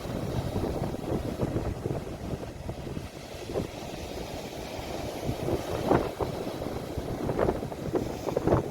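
Sea waves washing, heavy with low rumbling wind buffeting on a phone microphone, with a few sharper surges of water.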